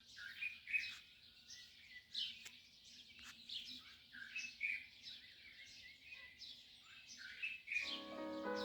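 Birds chirping: many short, quick calls sweeping down in pitch, overlapping one another, over a faint steady low hum. Music with held notes comes in near the end.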